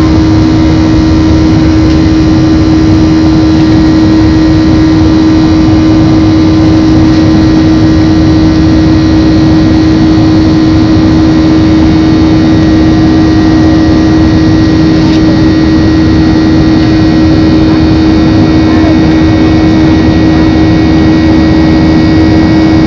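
Steady jet engine noise heard inside a Boeing 737 airliner's cabin while climbing out after takeoff, with a strong low hum that does not change.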